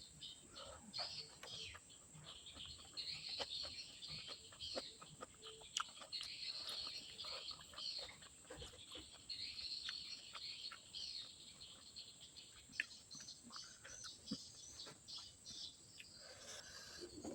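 Eating sounds: chewing and mouth clicks while eating rice with vegetables, with many short sharp clicks and patches of crunchy chewing coming and going.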